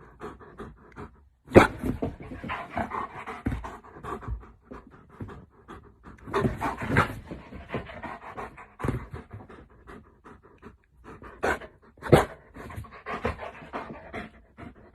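A dog panting in quick, rasping breaths, broken by two sharp bumps, the louder one about a second and a half in.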